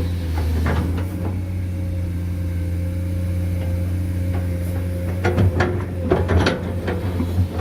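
Diesel engine of heavy earthmoving machinery running steadily, with a few metallic clanks about a second in and a cluster of clanks and knocks in the last couple of seconds.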